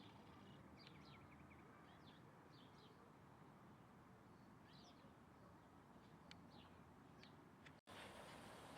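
Faint small-bird chirps: short, high calls repeated every half second or so over a steady background hiss. The sound drops out for an instant near the end, and the hiss is a little louder after it.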